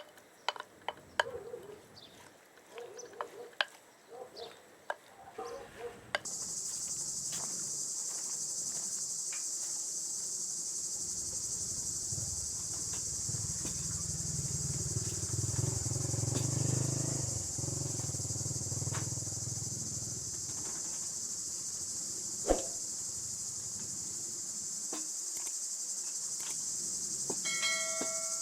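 Light clicks and clinks for about six seconds, then a steady high-pitched chorus of insects starts suddenly and carries on. A low hum swells up in the middle, and there is one sharp knock near the end.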